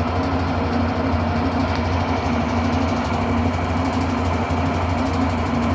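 Electrolux Turbo 8 kg (LM08) washing machine spinning a load, a steady low hum with a rough, vibrating edge. The drum is running unbalanced, which the repairman puts down to broken suspension springs.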